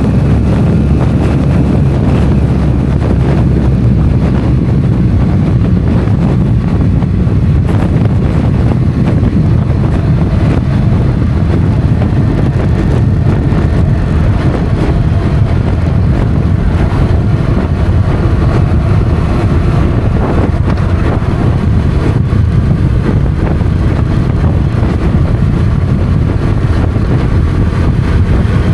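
Motorcycle under way: steady, heavy wind noise on the microphone over the engine's running, with faint engine tones shifting in pitch.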